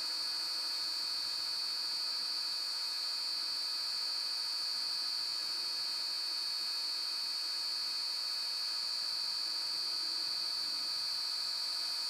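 Woodturning lathe running at a steady speed, its motor giving a steady high-pitched whine.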